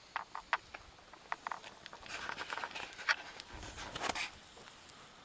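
Wood campfire crackling, with irregular sharp pops and snaps, and a soft rushing noise in the middle.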